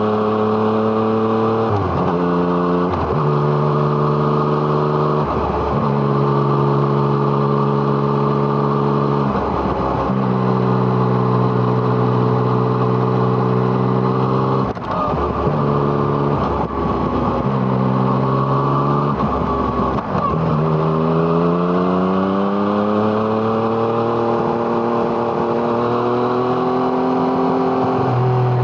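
2017 Yamaha MT-09's three-cylinder engine through an Arrow Thunder exhaust, heard from the moving bike. The engine note holds steady, breaks and changes pitch about half a dozen times as the throttle is rolled off and on, then climbs in one long pull over the last third as the bike accelerates.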